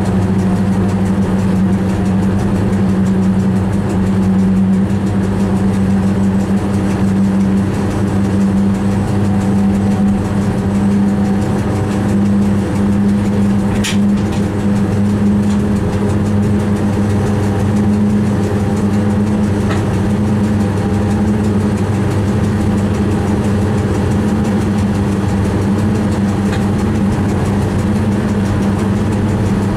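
Steady drone of a train running, heard inside the driver's cab, with three short sharp clicks, the loudest about halfway through.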